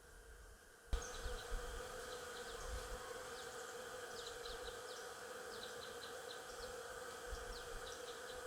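Stingless bees buzzing in a steady hum, with many short high chirps scattered over it. A sudden knock comes about a second in, and the buzzing is louder after it.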